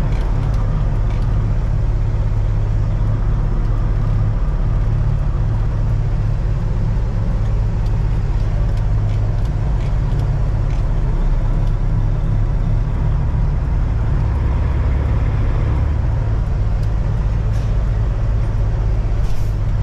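Peterbilt 379 truck's freshly overhauled diesel engine with a PDI turbo, running steadily while driving: a continuous low drone over road noise. Its low tone shifts for a few seconds about thirteen seconds in.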